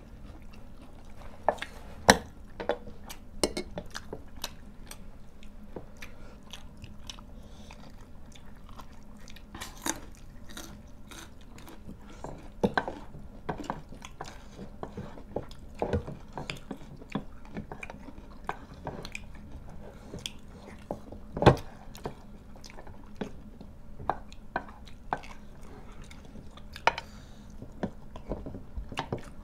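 Chewing and eating sounds from several people at a table, with many small clicks, smacks and taps throughout, and two sharper clicks about two seconds in and about two-thirds of the way through.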